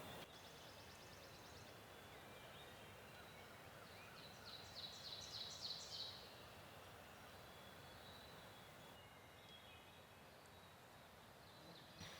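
Near-quiet woods with faint songbird calls: a brief high trill near the start, and a short phrase of about six rapid high notes about halfway through, over a steady low hiss.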